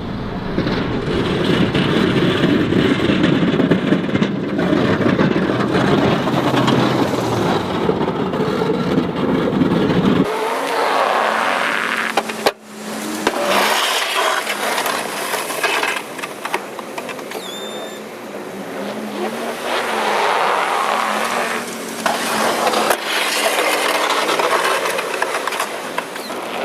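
Snowplow vehicle engine running while back-dragging and pushing snow. The sound changes abruptly about ten seconds in and breaks off for a moment at about twelve and a half seconds, then continues as a wavering engine hum with scraping noise.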